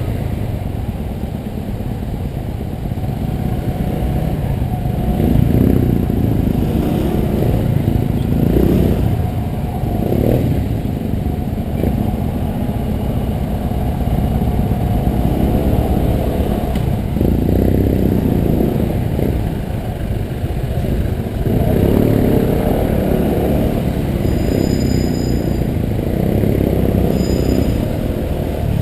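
Honda PCX 125 scooter's single-cylinder four-stroke engine running on the move, swelling and easing off every few seconds as it speeds up and slows. It comes with a low wind rumble and sounds muffled, most of the sound sitting low.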